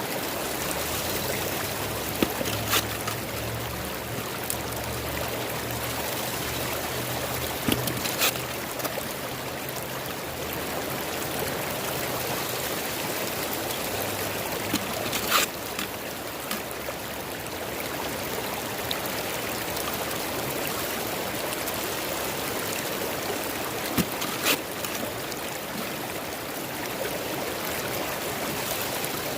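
Flowing river water, a steady rushing and trickling, with a few sharp knocks, some in pairs, about two, eight, fifteen and twenty-four seconds in.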